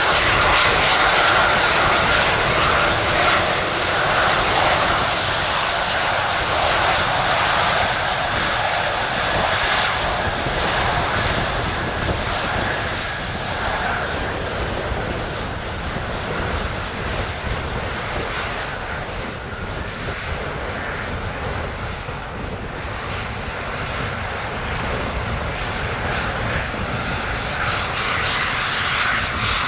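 Embraer Phenom 300 twin-turbofan business jet taking off, a continuous engine roar that is loudest in the first few seconds, eases off through the middle and swells a little again near the end.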